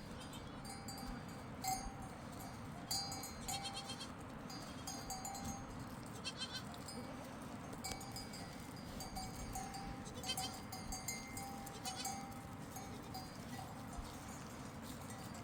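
A herd of sheep and goats with small bells jingling in quick clusters every few seconds, and an occasional faint bleat, over a steady rushing noise of river water.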